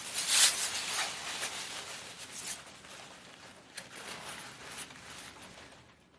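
Rustling and rubbing of parcel packaging being handled and opened. A burst about half a second in, then fainter scattered rustles that fade away.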